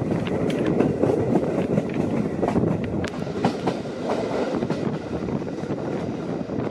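Passenger train running on the track: a steady rushing rumble with irregular sharp clicks of the wheels over rail joints.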